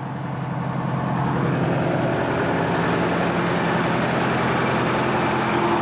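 Detroit Diesel 8V71 two-stroke V8 of a 1977 American LaFrance fire truck idling steadily. It grows a little louder over the first second or so, then holds even.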